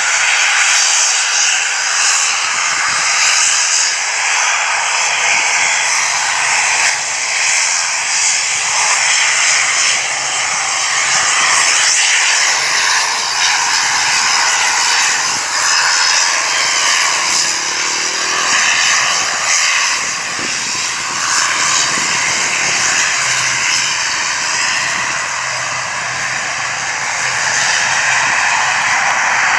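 Aircraft engines running loudly and steadily, a dense rushing noise with a high thin whine held through it.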